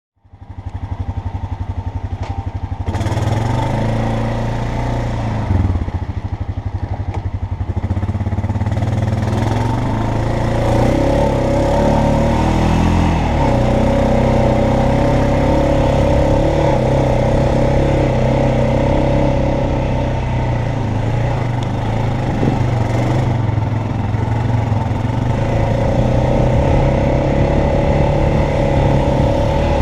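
2016 Honda Foreman Rubicon ATV engine running under way, its pitch stepping up and down several times with throttle and speed.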